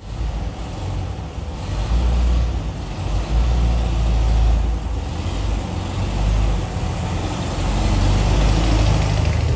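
Air-cooled flat-four engine of a 1970 VW Beetle running as the car is driven, a continuous low rumble that swells a little a couple of times.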